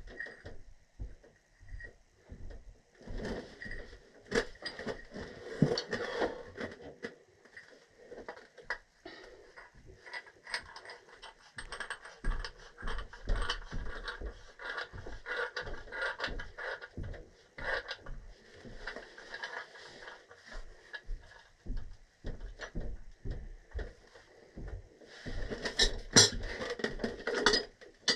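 A wrench working threaded gas pipe fittings: irregular metal clicks, scrapes and knocks, with busier stretches a few seconds in and again near the end.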